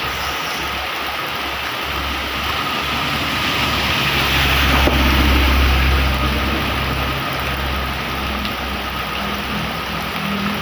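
Heavy rain hissing steadily, with a motor vehicle's engine running close by. Its low hum swells about four seconds in and eases off again near seven seconds.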